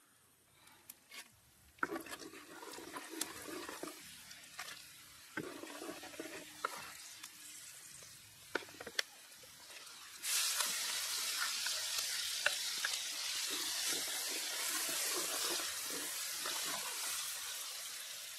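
Clinks and knocks of cooking utensils, then about ten seconds in food goes into hot oil in a pan and starts sizzling with a sudden, steady hiss that carries on, with stirring scrapes over it.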